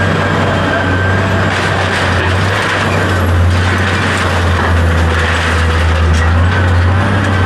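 A machine running steadily with a strong low hum that swells a little in the middle.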